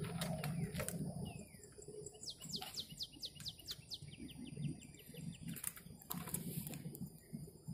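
Outdoor birdsong: a low cooing near the start and again about halfway, and a quick run of short falling chirps around the middle, with scattered sharp clicks.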